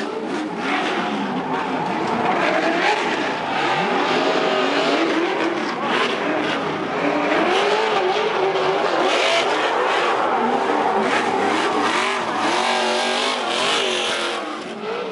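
Race truck engines revving, their pitch rising and falling throughout, with tire noise.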